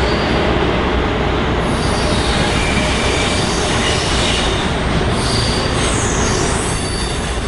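Passenger train moving through a station: a steady loud rumble of wheels on rail, with a faint high wheel squeal in the middle.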